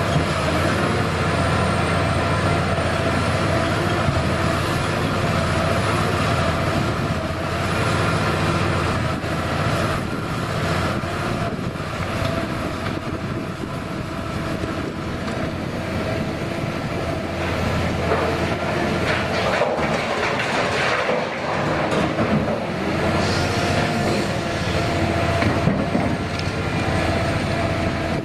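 Liebherr hydraulic excavator working: its diesel engine running steadily with a constant whine, and scattered metallic clanks and rattles.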